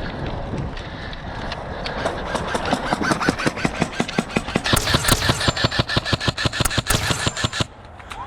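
An airsoft gun firing a fast string of shots, about six a second, growing louder and then stopping suddenly near the end.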